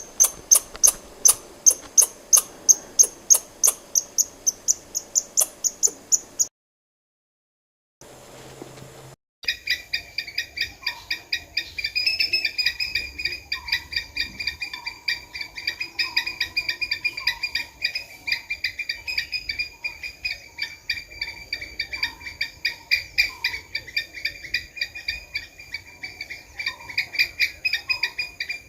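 Squirrel calling: a fast series of high, sharp chirps, about three a second. After a short break, a second run of quicker, continuous chattering calls at a lower pitch.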